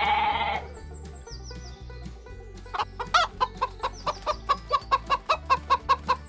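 A sheep bleats once, briefly, at the very start. About three seconds in, a flock of chickens starts clucking in quick short notes, about four a second, with one louder call at the beginning.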